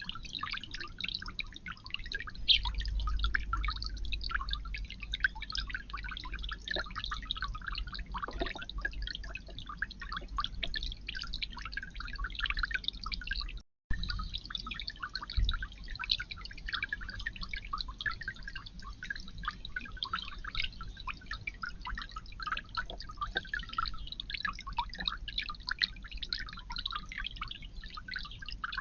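Water dripping and trickling in a garden bird-bath fountain, a dense patter of small drops, with a low rumble underneath from a few seconds in. The sound drops out briefly about halfway through.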